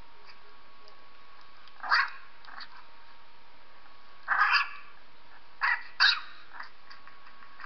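A 3-week-old puppy's high-pitched cries, played back from a video: four short squeals, one near 2 s, a longer one at about 4.5 s, then two close together around 6 s.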